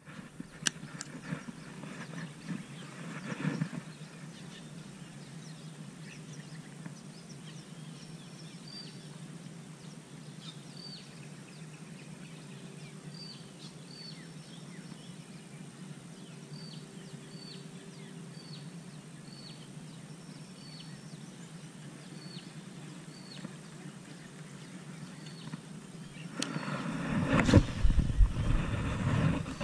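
Outdoor ambience with a steady low hum and a bird repeating short, high chirps about once a second through the middle. Loud rustling and bumping handling noise comes near the start and again near the end, the last with a low rumble, as the angler's arm swings up to cast.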